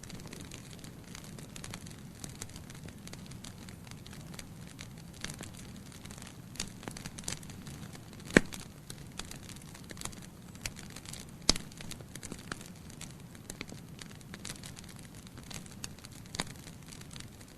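Wood fire burning in a fireplace: a steady low hiss of flame with scattered crackles, and two loud pops, one about eight seconds in and another about three seconds later.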